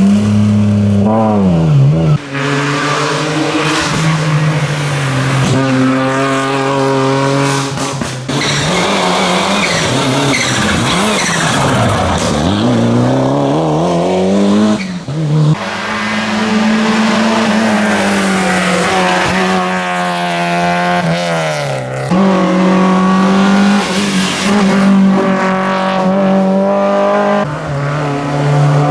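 Rally car engines revving hard, their pitch climbing and dropping through gear changes and lifts, heard one car after another with abrupt changes between them.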